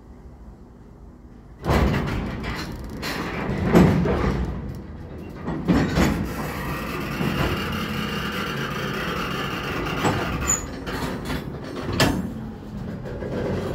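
Freight train of covered hopper cars rolling past close by: steel wheels and car bodies rumbling and rattling, with sharp knocks every few seconds. The sound comes in suddenly about two seconds in.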